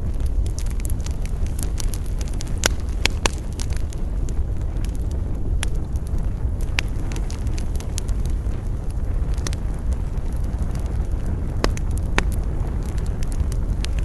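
Wood campfire crackling, with sharp pops scattered through it, over a steady low rush of wind.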